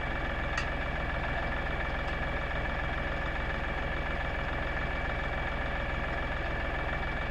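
LS tractor's diesel engine idling steadily, with two faint clicks, one about half a second in and another about two seconds in.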